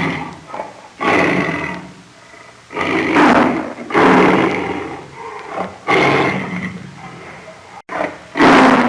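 A large animal roaring: about five loud calls, each lasting around a second.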